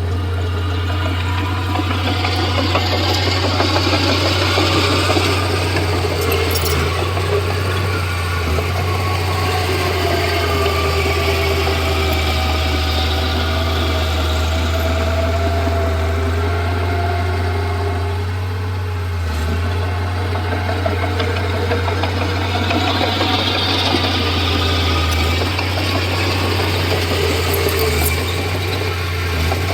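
Komatsu D31P bulldozer's diesel engine running steadily, with a fainter whine over it that slowly rises and falls in pitch.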